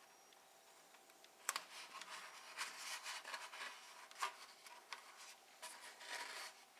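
Hands rubbing and rustling against plastic parts and tape, with a sharp click about one and a half seconds in and another about four seconds in.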